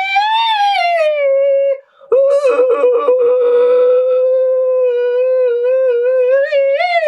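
A singer's voice holding long, high nasal tones in a wordless vocal exercise, sounding like a howl: one note sliding downward, a short breath about two seconds in, then a long held note with a slight wobble that rises near the end.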